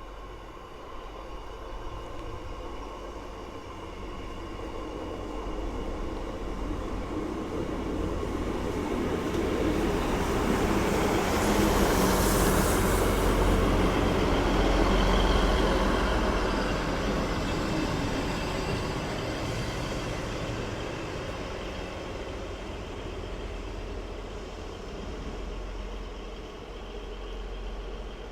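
A train passing through the station. Its rumble builds over about ten seconds, is loudest around the middle with a short hiss, then fades away.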